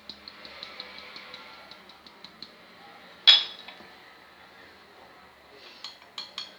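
A utensil stirring in a mixing bowl with quick light clicks, about four or five a second, as the baking powder is worked into the biscuit dough. The clicks stop about two and a half seconds in. About three seconds in comes one loud ringing clink, then a few more clinks near the end.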